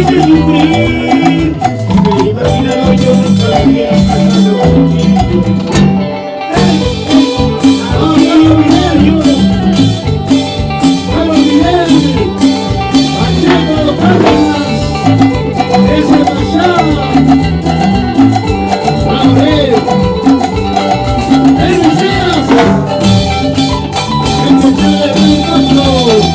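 A Latin dance band playing an instrumental stretch of a song, with steady percussion under a melodic lead. There is a short break in the beat about six seconds in.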